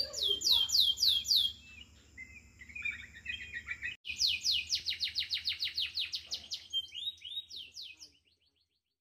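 Caged songbird singing: fast runs of high, descending whistled notes, about five or six a second, broken by a sudden cut about four seconds in and fading out near the end.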